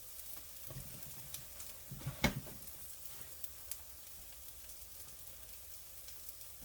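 Sliced bell peppers and onions sizzling steadily in a greasy frying pan, with one sharp knock about two seconds in and a few faint ticks.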